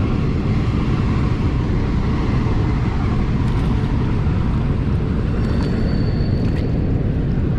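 Steady, loud rushing of river water flowing over a shoal, with a faint thin high tone briefly near the end.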